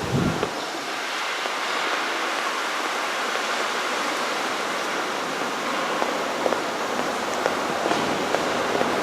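Steady rushing hiss with no distinct tone, even in level throughout, with a few faint ticks.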